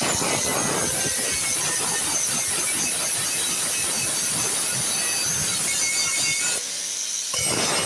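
Steady rasping, scraping noise of hand-tool work, made of many quick strokes with a high hiss on top; it stops briefly about six and a half seconds in, then starts again.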